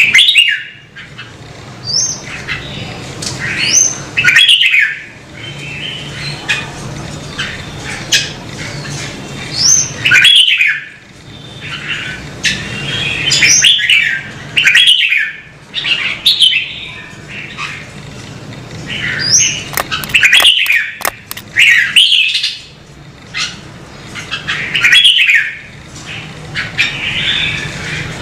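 Red-whiskered bulbul singing: short, bright, warbling phrases repeated every two to three seconds.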